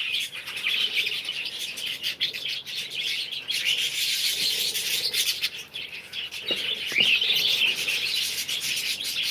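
A flock of small birds chirping and chattering without pause, many overlapping calls at once.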